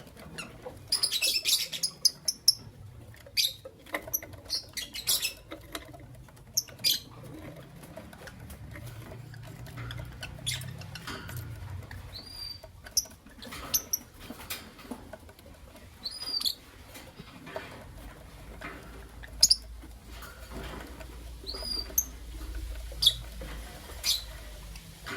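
Lovebirds giving short, shrill chirps and squeaks, with many quick clicks and taps in between.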